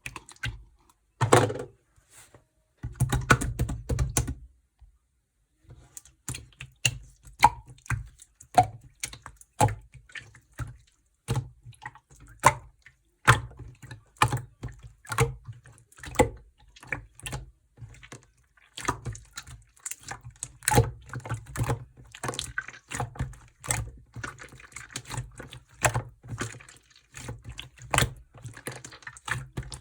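Yellow slime being squished and pressed by hand, giving irregular sticky clicks and pops. The louder squelches come in the first few seconds, with a short pause before the clicking resumes.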